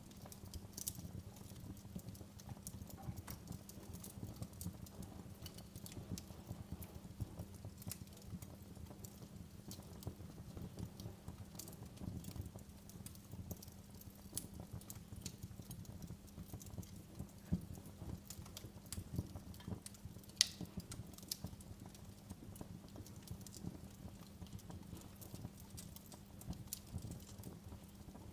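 Wood fire burning in a fireplace, crackling with irregular small pops over a low rumble, two louder pops about two-thirds of the way through. A faint steady low hum runs underneath.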